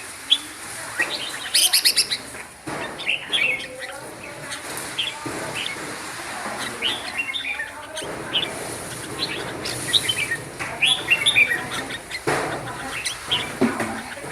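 Red-whiskered bulbul singing: short, bright chirping phrases of a few quick notes each, repeated with brief pauses between them.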